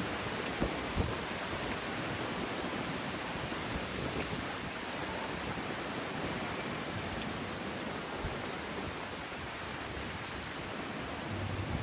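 Strong wind rushing steadily, with a few low buffets on the microphone about half a second and a second in.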